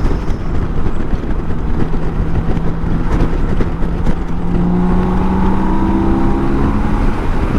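BMW K1600 GTL's inline-six engine running on the move under a heavy, steady wind-and-road rumble, its note held steady and then climbing slightly from about halfway through as the bike pulls.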